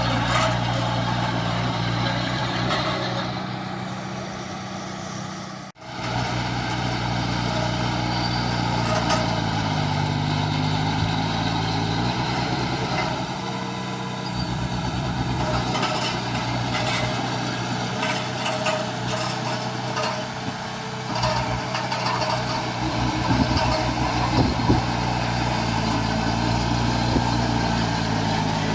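Heavy diesel construction machinery running steadily, its engine pitch dipping briefly about ten seconds in, with scattered knocks later on. The sound cuts out for an instant about six seconds in.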